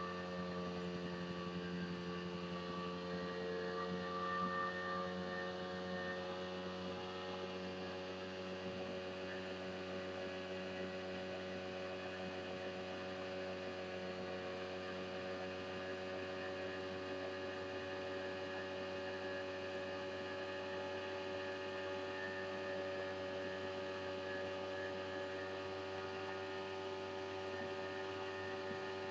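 Outboard motor of a homemade plywood motorboat running at a steady speed under way, a constant drone whose pitch wavers slightly in the first few seconds and then holds even.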